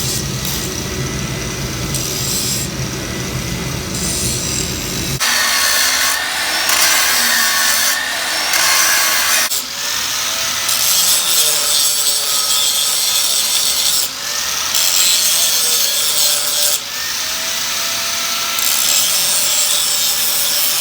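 Power grinder grinding the groove of a steel hardy tool to dress and clean it up: a loud, harsh grinding noise in several stretches, with the motor's pitch dipping and recovering as it bears on the metal.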